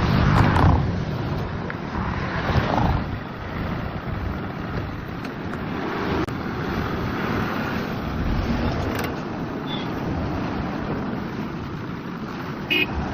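A motor vehicle running, a steady noisy rumble that swells a few times in the first three seconds, with a brief high chirp near the end.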